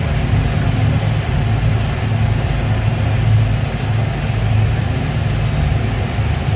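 Speedboat engines running steadily: a loud, even, low drone that holds constant throughout.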